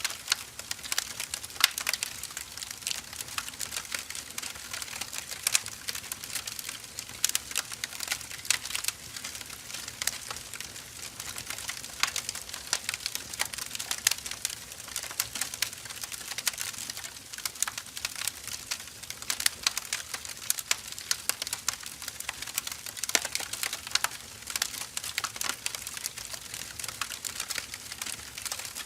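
Burning firewood logs crackling, with a continual patter of irregular sharp pops and snaps over a soft hiss.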